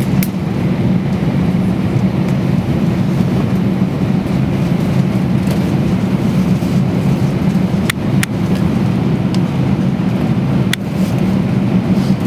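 Steady low hum of the cabin air supply inside an Airbus A320 parked at the gate before engine start, with a few faint clicks about eight and eleven seconds in.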